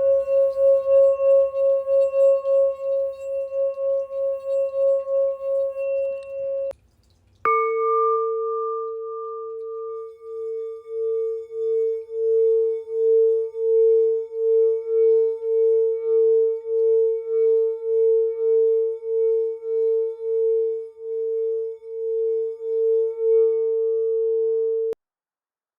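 Tibetan singing bowls ringing. A bowl sung around its rim gives a steady pulsing tone that cuts off about seven seconds in. A lower-pitched bowl is then struck once and rubbed into a slower pulsing ring, which stops abruptly near the end.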